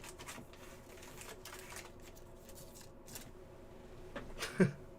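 Faint rustling and light clicks of trading cards being handled and flipped through, with a brief voice sound near the end.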